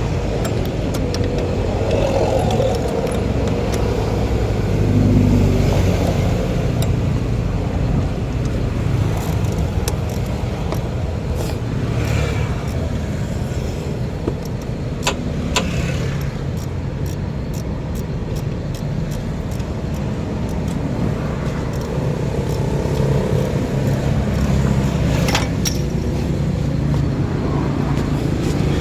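Car engine running at a steady idle, with a few sharp clicks and taps over it.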